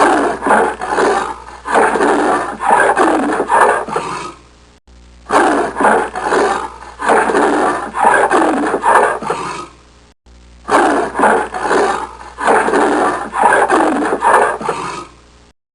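A big cat's rough, rasping roars in a series of grunts. The same five-second call is repeated three times, each time after a brief break.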